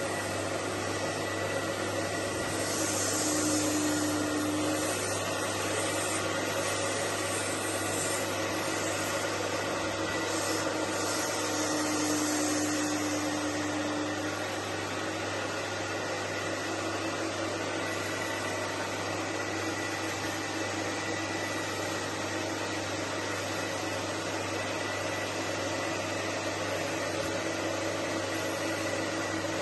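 Carpet-cleaning extraction machine's vacuum motors running steadily while fabric lounge upholstery is cleaned, swelling twice into a louder hiss as the tool draws through the fabric.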